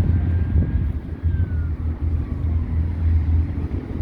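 Low, steady rumble of car engines idling, with a faint thin tone that slides down in pitch about a second and a half in.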